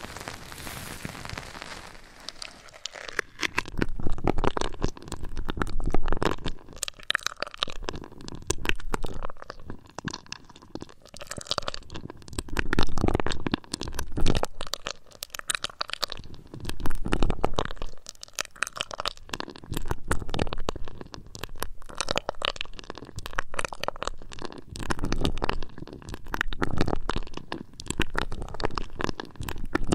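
Close-up ASMR trigger sounds on a binaural microphone: crackly rubbing and tapping right at the mic, coming in swells about every two seconds. It follows a few seconds of steady hiss at the start.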